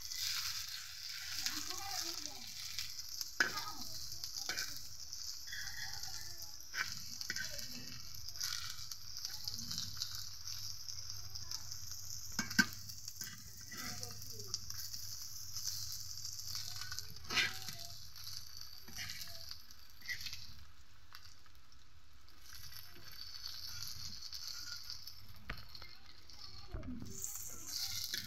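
Battered jute-leaf fritters sizzling steadily in shallow oil in a karahi, with a few sharp knocks of a metal spatula against the pan.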